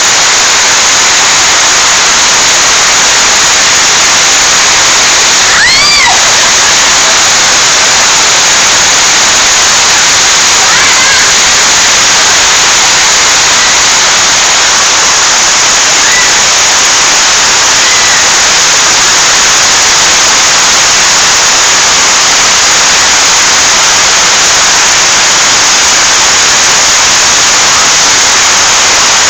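Heavy rain pouring down, a loud, steady hiss of water. About six seconds in, a brief high-pitched voice rises and falls over it.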